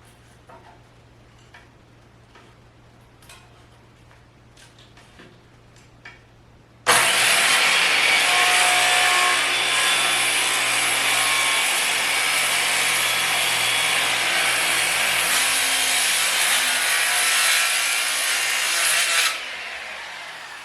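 A few faint knocks of handling, then a worm drive circular saw starts about a third of the way in and cuts steadily through a 6x6 timber to square its end for about twelve seconds, then winds down as the blade coasts to a stop.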